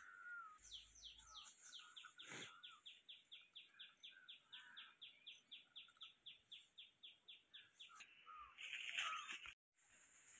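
A bird calling a long, even run of short falling notes, about four a second, with a few softer chirps around it. Near the end a brief louder burst of noise, then the sound cuts out.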